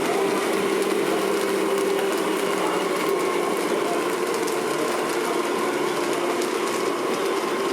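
Electric drive of a radio-controlled scale model vehicle running with a steady gear whine, its pitch shifting slightly a few times.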